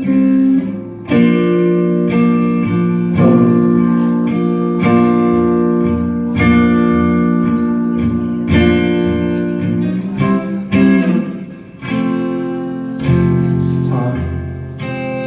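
Guitar played live: slow chords struck every second or two and left to ring, an instrumental passage between sung lines of a ballad.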